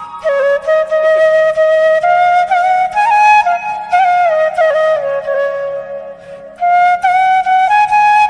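Background music: a flute playing a gliding, ornamented melody, with a brief break about six seconds in.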